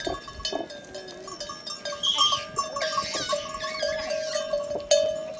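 Sheep and goats bleating, with a steady held tone underneath.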